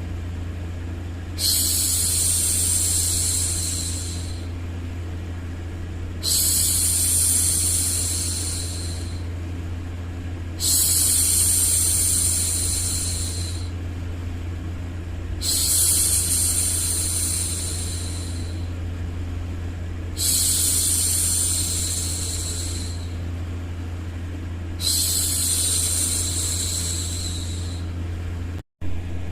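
A woman's voice hushing "shhh" over and over to soothe a baby: six long shushes, each about three seconds, coming roughly every five seconds, over a steady low hum.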